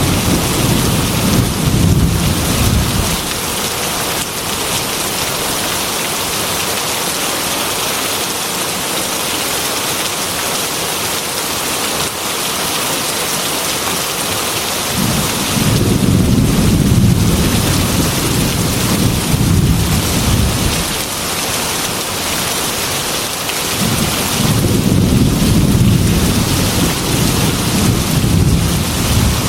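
Heavy rain beating steadily on window glass, with rolling thunder rumbling three times: one fading out in the first few seconds, one swelling about halfway through for several seconds, and another near the end.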